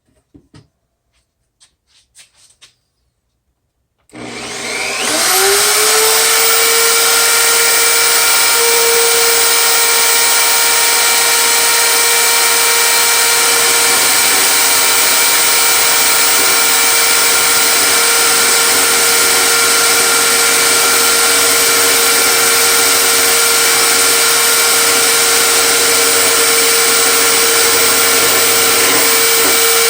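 A few light handling clicks, then about four seconds in an electric power tool motor starts with a rising whine as it spins up and runs loud and steady at full speed. It is the tool used to take a lip off a wooden miter saw fence so the fence is all the same height.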